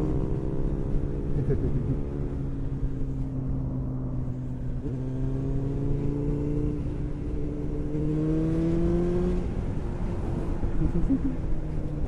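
Kawasaki Ninja ZX9R's inline-four engine running at low revs in slow traffic. The note eases down, climbs gradually for several seconds as the bike pulls along, then drops back as the throttle is closed.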